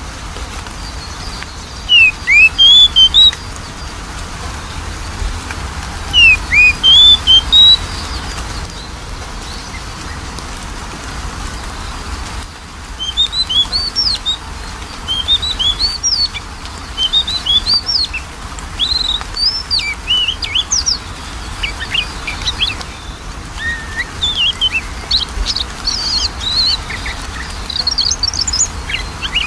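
Oriental magpie-robin (kacer) song: two loud, short bursts of quick rising whistles early on, then from about halfway a fast run of varied whistles and chirps, over a steady hiss. It is a lure recording for setting off a caged magpie-robin that is reluctant to sing.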